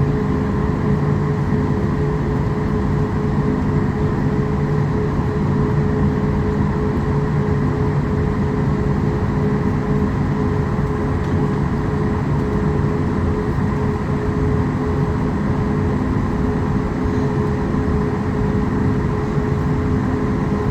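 Boeing 737 MAX 8's CFM LEAP-1B jet engines running at idle, heard from inside the cabin: a steady rumble with several constant whining tones.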